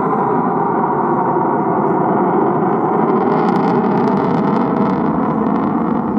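Aircraft engine roar at an airshow: a loud, steady rush of noise that distorts the microphone.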